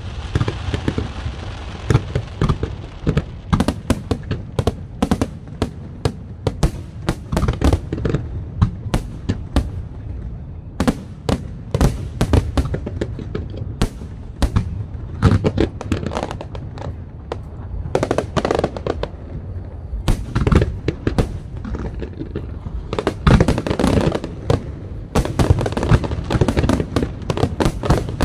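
Fireworks display: aerial shells bursting in a dense, continuous barrage of sharp bangs and crackles, many per second, over a low rumble.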